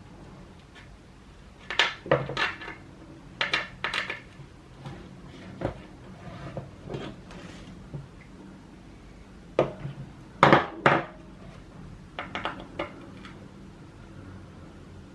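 Irregular metallic clinks and knocks in small clusters as skateboard mounting screws and hardware are handled and pushed through the deck, loudest about two seconds in and again around ten seconds in.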